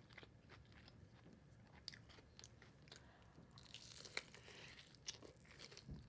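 Faint close-up chewing and crunching of crispy wings, with scattered small crackles and a louder crunch about four seconds in.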